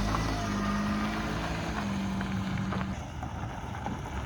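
Car engine running under way with Joy dish detergent in its crankcase instead of engine oil, still running healthily. A steady engine note drops away about three seconds in, leaving quieter running and wind noise.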